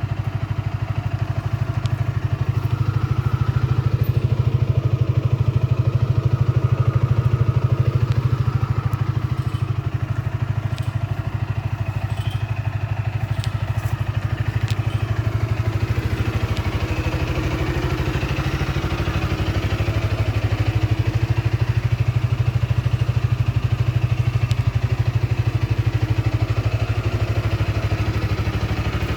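2012 SYM Maxsym 400i scooter's single-cylinder engine running steadily at a constant low speed.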